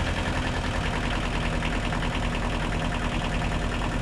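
1989 Kubota KH040 mini excavator's diesel engine idling steadily, just started and not yet warm.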